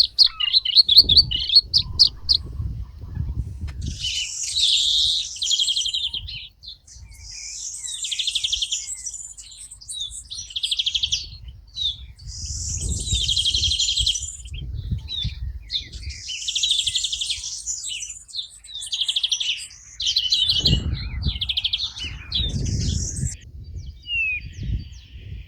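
Songbirds singing in the open, with high, trilled phrases of song repeating every few seconds. Bouts of low rumbling noise come and go underneath: near the start, in the middle and near the end.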